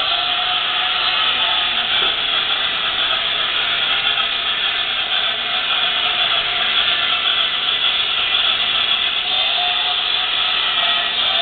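Toy Christmas-tree train running on its track around the tree, a steady mechanical hissing whir.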